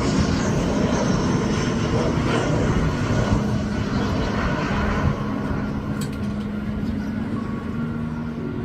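Airliner passing low overhead on its landing approach, a loud engine rumble that slowly fades as it goes by.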